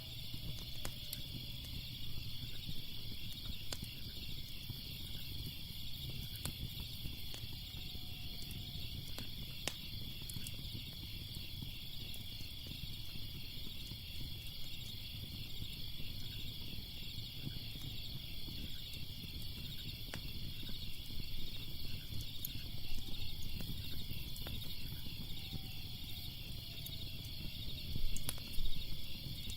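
Crickets chirping in a steady pulsing chorus, with scattered sharp pops and crackles of a wood fire over a low rumble; a few louder crackles come near the end.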